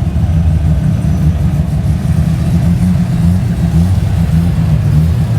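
A car engine running close by, a steady low rumble.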